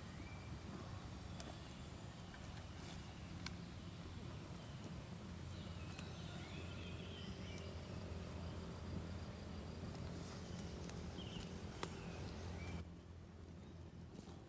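Insects droning steadily in one continuous high-pitched buzz that cuts off suddenly near the end, with a few faint clicks underneath.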